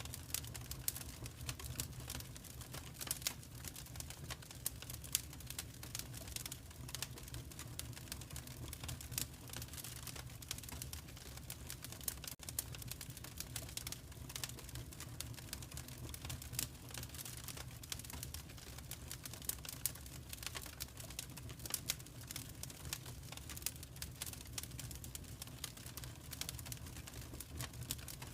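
Wood fire in a fireplace crackling: dense, irregular pops and crackles over a low, steady rumble.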